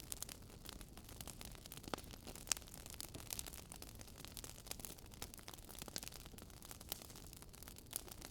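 Wood fire crackling in a fireplace: scattered small pops and snaps over a soft steady hiss, with one sharper pop about two and a half seconds in.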